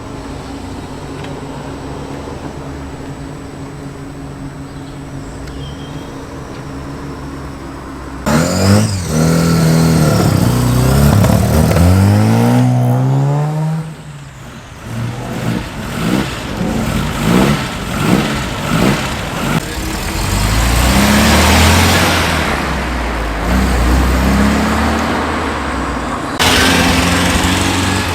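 Classic car engines idling steadily, then about eight seconds in, cars pulling away and passing close by one after another. Each engine rises in pitch as it accelerates up through the gears.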